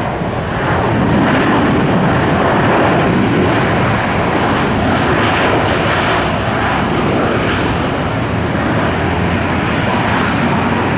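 Jet airliner engines running loud and steady as the aircraft lands and rolls out on the runway. The roar swells about a second in.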